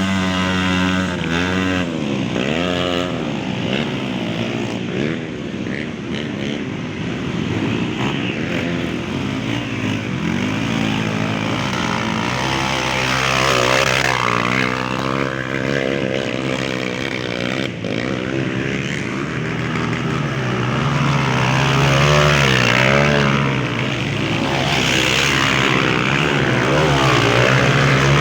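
Several dirt bike engines revving up and down, their pitch rising and falling, over a steady low hum.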